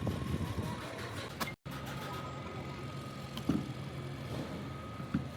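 An engine or motor running steadily, with a few light knocks about three and a half seconds in. The sound cuts out completely for an instant about a second and a half in.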